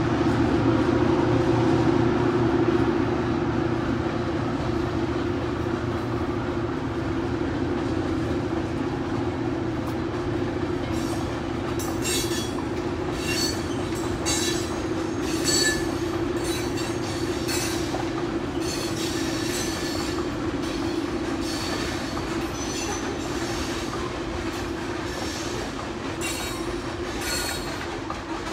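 Freight train cars rolling past on a truss bridge with a steady rumble. About eleven seconds in, repeated short high-pitched wheel squeals and clicks join it and recur roughly once a second.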